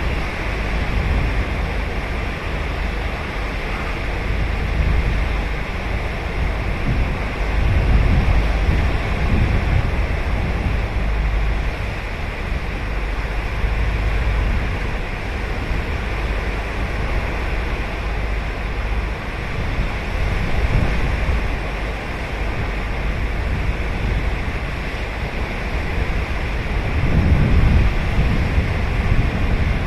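Ocean surf breaking and washing up on a sandy beach in a steady wash, with a low wind rumble on the microphone and a couple of louder swells as bigger waves come in.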